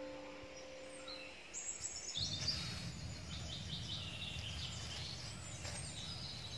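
Small birds chirping and calling over a steady low outdoor rumble. The chirping starts about a second and a half in, as the last sustained notes of background music fade out.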